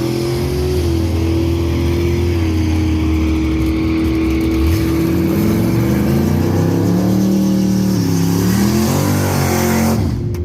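Race car engines running at a drag strip. One engine's pitch rises over several seconds in the second half, over a steady tone that holds throughout.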